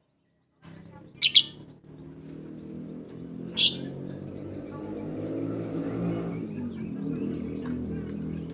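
Lovebird giving sharp, high chirps, two in quick succession about a second in and a single one a couple of seconds later, over a steady low drone.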